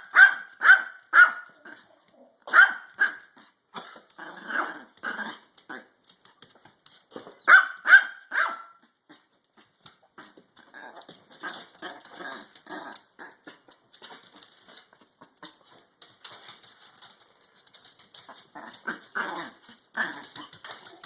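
Dog barking in clusters of sharp, high-pitched barks during the first nine seconds, then quieter, fainter sounds, with a few more barks near the end.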